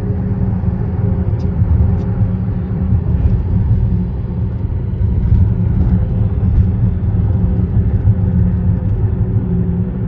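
Steady low rumble of road vehicles on a concrete bridge.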